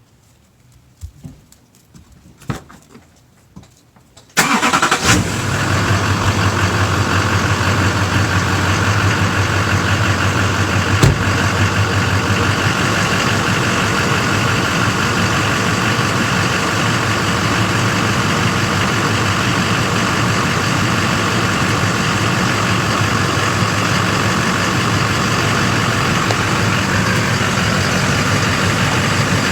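A few faint clicks, then about four seconds in an 8,000-pound truck's engine starts and settles into a steady idle, with a single knock about eleven seconds in.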